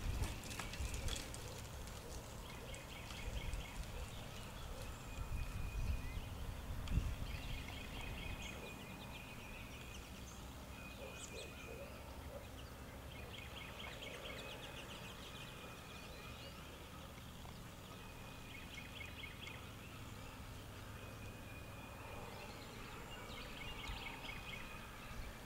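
Faint birdsong: a short, rapid trilled phrase repeated every few seconds, with a low rumble under the first several seconds.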